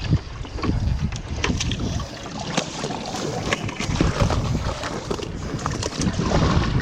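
Wind rumbling on the microphone, with many scattered clicks, knocks and rustles of gear being handled.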